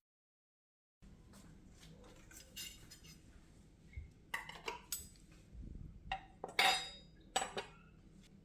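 Dishes and utensils clinking and knocking in a series of separate light clinks, the loudest a little past the middle.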